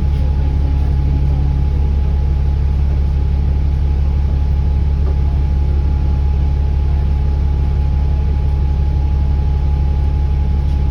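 ADL Enviro400 double-decker bus's diesel engine running steadily, heard from inside the bus: a deep, even drone with a thin steady whine above it.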